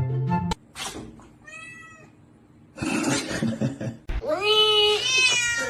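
Domestic cat meowing: a short meow about one and a half seconds in, a rush of noise around three seconds, then a long, louder meow from about four seconds in that drops in pitch at its end. Background music cuts off near the start.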